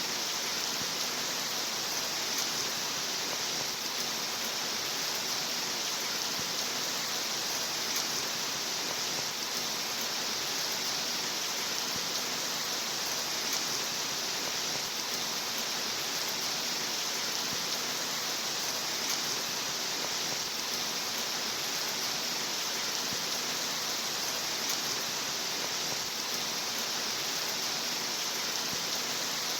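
Steady rain falling in an even, unbroken hiss, with no rise or fall.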